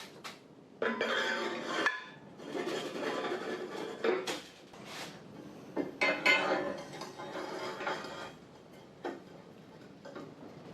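Metal pieces clinking and clattering as they are handled and knocked together, in irregular spells with sharp clicks and a little ringing.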